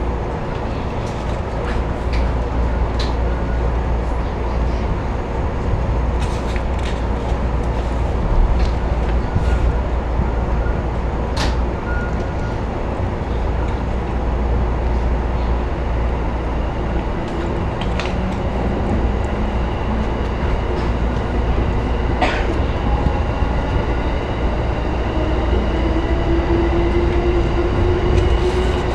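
Electric commuter train running, heard from inside the front car: a steady rumble of wheels on rail with scattered clicks, and a motor whine that rises in pitch over the last few seconds as the train gathers speed.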